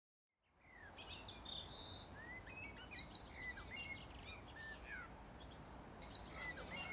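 Faint birdsong: several birds chirping with short whistled glides, with louder clusters of high chirps about three seconds in and again near the end.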